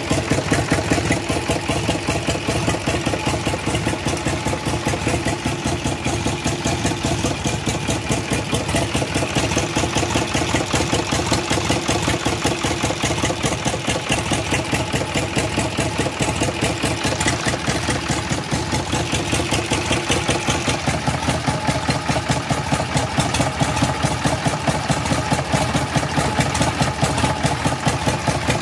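Old three-cylinder diesel tractor engine running steadily at a fast, even idle, its firing strokes coming as a rapid, regular knock.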